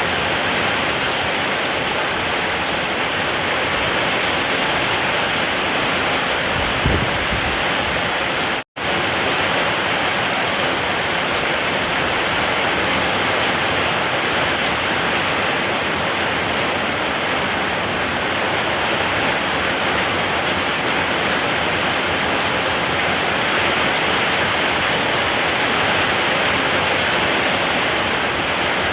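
Steady heavy rain, an even rushing hiss. About seven seconds in there is a brief low thump, and shortly after the sound cuts out completely for a split second before the rain resumes.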